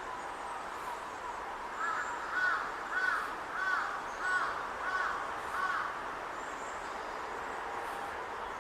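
A crow cawing seven times in an even series, a little under two caws a second, over steady background noise.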